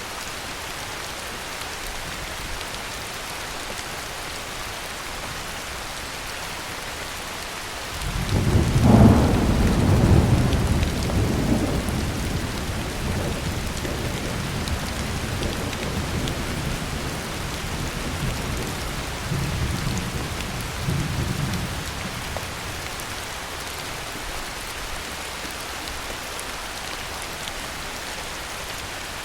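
Heavy rain falling steadily, with a roll of thunder that breaks in suddenly about a quarter of the way through, rumbles loudest for a few seconds, swells again briefly and fades out well before the end.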